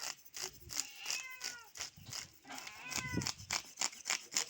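Short animal calls that fall in pitch, several in a row, over a fast, even ticking of about four ticks a second.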